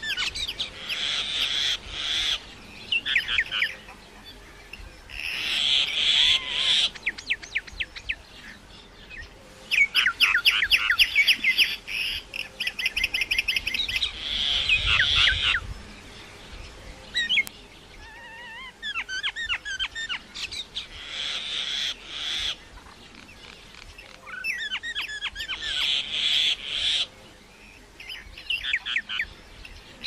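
Small birds chirping and trilling in repeated high bursts a few seconds long, with quieter gaps between them. A fast, even trill runs for several seconds near the middle.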